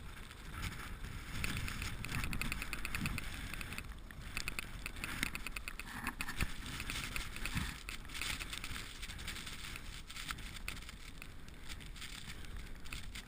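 A heavy vehicle's diesel engine running, with a low rumble and fast, even ticking in places, a few sharper knocks, and wind noise on the microphone.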